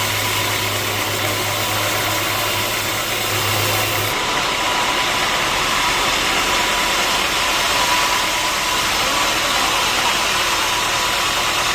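Sawmill machinery running steadily: a loud, continuous mechanical noise, with a low hum dropping out about four seconds in.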